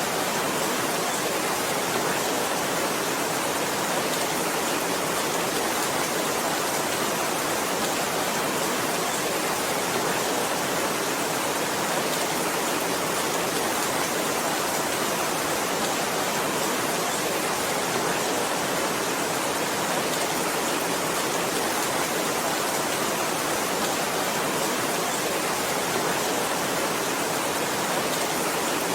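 Heavy rain: a dense, steady hiss with no single drops or breaks standing out.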